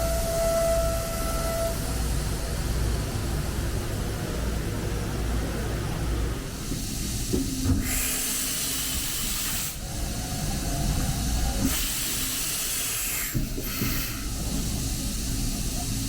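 OKK HM500S CNC horizontal mill running with a steady hum and a short steady tone at the start. From about six seconds in come loud hissing blasts, two long ones of about two seconds each and a short one near the end.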